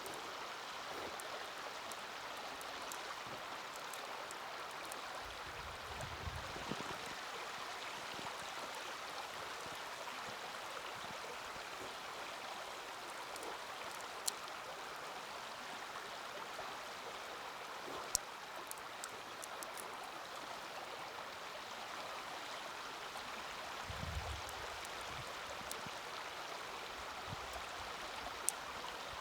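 A steady rushing noise, like running water, with a few sharp pops of burning wood from a small campfire: one about halfway, one a few seconds later, one near the end. Twice there is a soft low thump.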